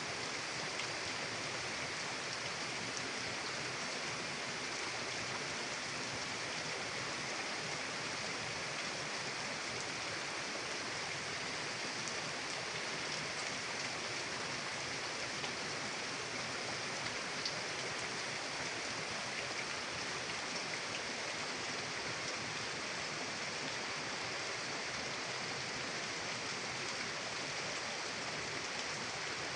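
Mountain river flowing, a steady even rush of water with a few faint small splashes.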